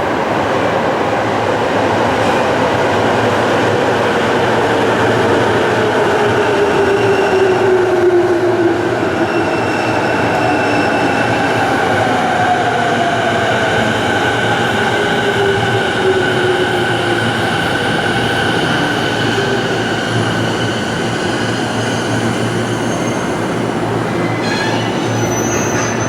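Electric train running along the platform and slowing, its motors whining in slowly falling tones over steady wheel and running noise.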